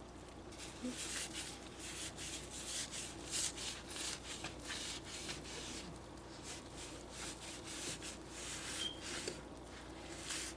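A stovetop being rubbed by hand with a cleaner, a run of quick, irregular rubbing strokes.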